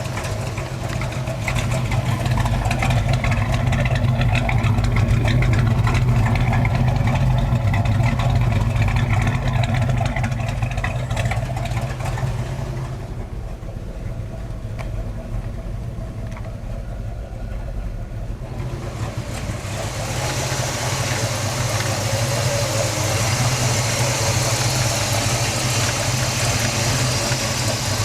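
Chevrolet 454 big-block V8 in an El Camino SS idling steadily. For several seconds midway the sound goes duller and a little quieter, then comes back.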